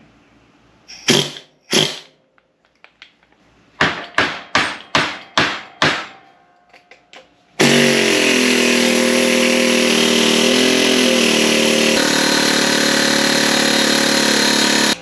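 Hammer blows on a steel transmission shaft, driving it back through a stuck bearing: two blows, then a quick run of about six, then light taps. About halfway through, a loud steady machine sound, like a power tool's motor running, starts abruptly and continues until it cuts off at the end.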